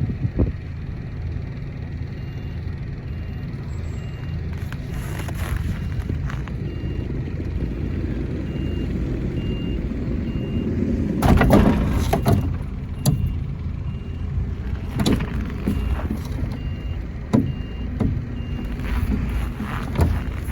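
Truck engine running as the tractor unit backs up to couple to a trailer, with a faint beep repeating about once a second. A loud clank comes near the middle, followed by a few sharper knocks.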